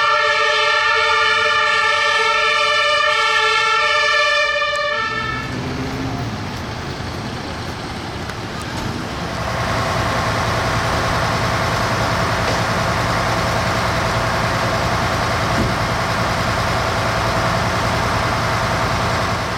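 A fire engine's horn sounds a loud, steady multi-tone chord and cuts off about five seconds in. A truck engine then runs steadily and grows louder a few seconds later.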